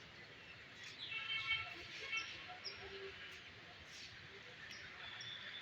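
Birds chirping: many short, high calls, some falling in pitch, over a faint murmur of distant voices.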